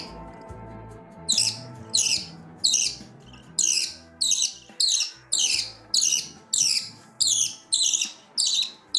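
Baby budgie chicks' begging calls during hand-feeding: short, high-pitched, downward-sweeping squawks repeated about twice a second, starting a little over a second in. Background music plays underneath.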